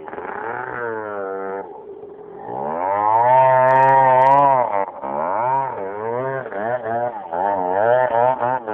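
Suzuki DS80 dirt bike's small two-stroke single-cylinder engine revving. The pitch climbs and cuts off in the first second or two, climbs again to a long loud high rev in the middle, then rises and falls in quick throttle blips.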